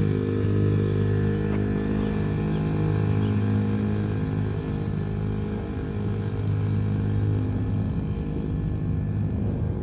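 Small dirt bike engine running steadily at low revs in first gear as the bike rolls along.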